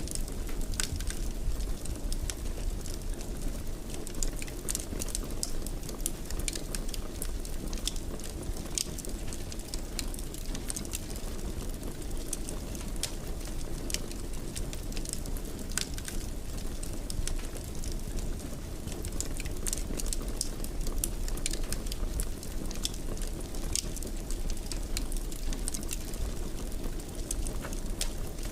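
Wood fire burning in a fireplace: a steady low rush with frequent sharp crackles and pops scattered throughout.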